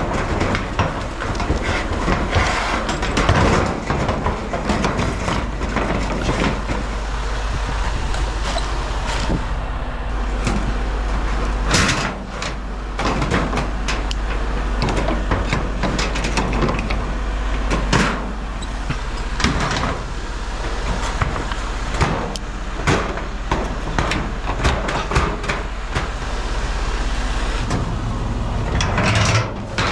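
Heavy vehicle's diesel engine running steadily, with frequent knocks, clanks and rattles over it.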